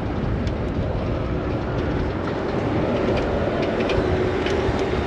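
Steady rumble of city street traffic heard from a moving bicycle, with a faint steady hum entering about three seconds in.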